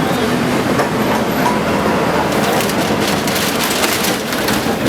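Heavy demolition machinery running while it crushes and breaks up debris, with crunching and splintering cracks that grow more frequent in the second half.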